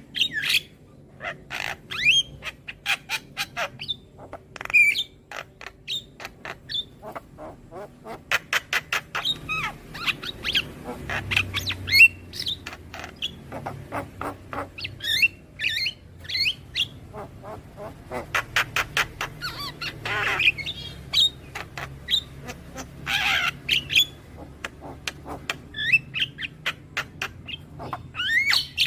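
Young Javan myna (jalak kebo) calling: rapid runs of short clicking and chattering notes, mixed with harsh squawks and a few rising whistled notes.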